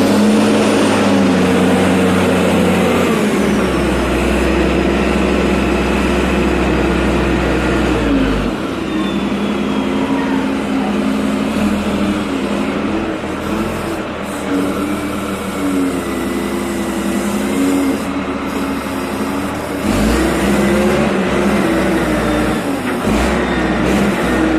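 Reach stacker's heavy diesel engine running loudly, revving up and dropping back several times as it works.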